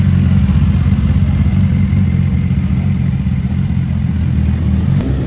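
Sport motorcycle engine running steadily close by, low-pitched and even, without a clear rev.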